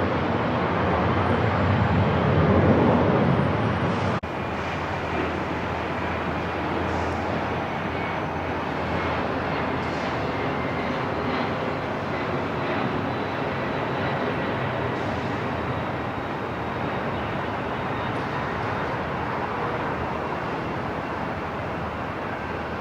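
Airport ambience: a steady rush of noise with the drone of aircraft. It is louder for the first four seconds, drops suddenly about four seconds in, and then stays even with faint high tones.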